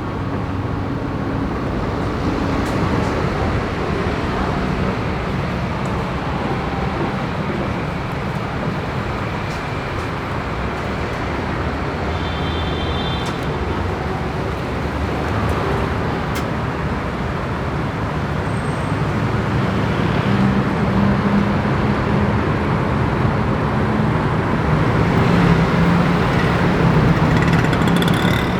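Busy city road traffic: vehicles running past with a steady road noise, and engine hum growing louder toward the end. A short high beep sounds about twelve seconds in.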